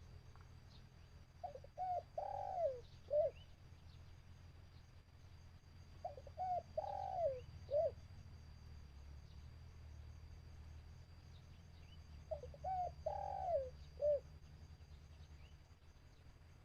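Spotted dove, a caged decoy, cooing to lure wild doves: three phrases about five seconds apart, each two short notes, a longer falling note and a short closing note.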